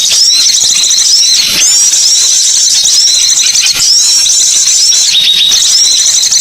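Small songbirds chirping and twittering in a dense, unbroken stream of short high notes, many overlapping, over a steady high hiss.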